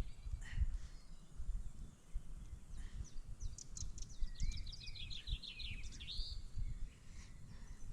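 A small songbird sings a rapid run of high chirping notes lasting about three seconds, starting about three seconds in, over a steady low rumbling noise.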